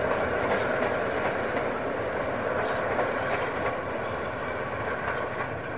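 Railway passenger coaches rolling past on a coasting train: wheels running on the rails with a few clicks over the rail joints, slowly fading as the train draws away.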